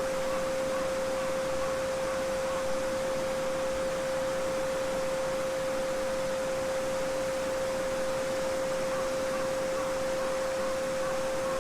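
Steady 528 Hz sine tone, one unbroken pitch, over the even rushing of a small babbling brook.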